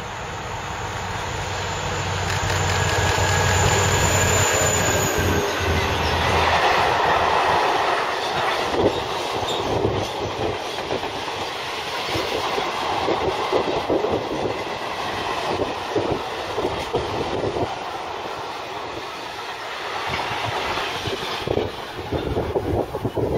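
Freight train passing close by. The locomotive comes through first with a steady low hum and a high whine. A long rake of empty stanchion flat wagons follows, clattering and rattling over the rails and fading off near the end.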